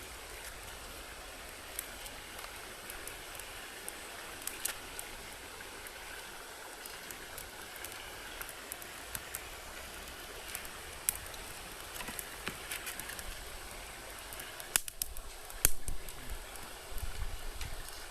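Small wood fire burning in a fire stand: a steady hiss with scattered crackles and snaps, and a few louder pops and knocks near the end.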